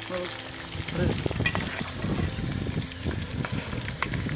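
Chicken pakoda pieces deep-frying in oil: an uneven bubbling crackle that starts about a second in.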